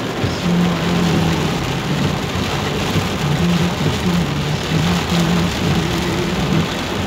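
Heavy rain drumming steadily on a car, heard from inside, with a low hum underneath that comes and goes.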